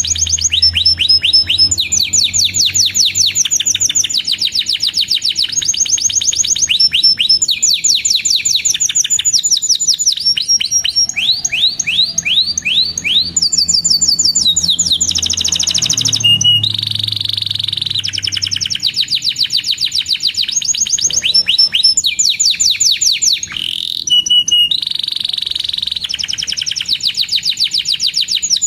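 Canary singing on and on in long, fast trills of rapidly repeated high chirps, with a held whistled note about halfway through.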